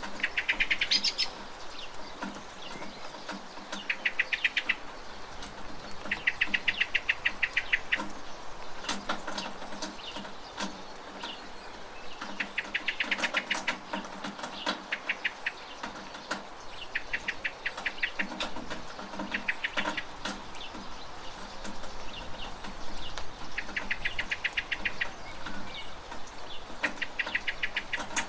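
A bird gives rapid chattering call bursts, about seven over the span, each a quick run of clicks lasting a second or so. Behind them is steady rain with scattered drips.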